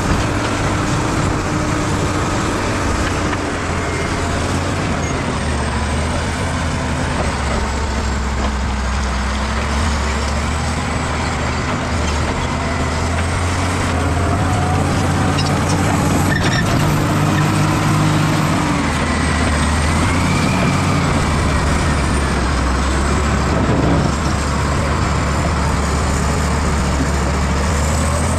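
Bulldozer's diesel engine running steadily under load while it works, with faint high squeals wandering in pitch over it.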